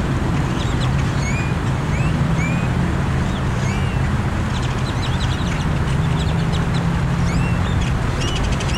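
A large flock of birds chattering, with many short, high calls and chirps overlapping throughout, over a steady low rumble.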